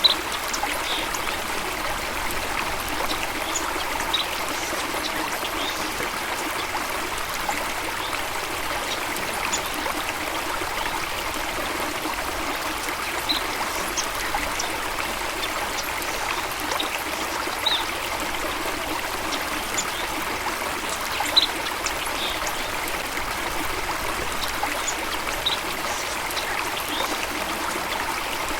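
Water of a stream running steadily, with scattered brief high-pitched plinks over it; one louder plink comes about 21 seconds in.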